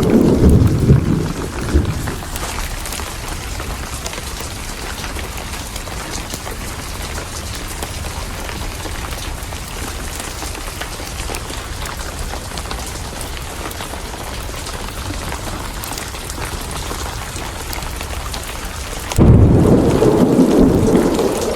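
Steady heavy rain with a rumble of thunder fading out over the first two seconds. A second loud, low thunder rumble starts suddenly near the end.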